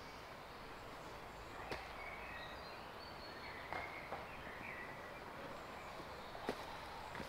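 Birds chirping faintly in woodland over a quiet background hush, with a few soft clicks.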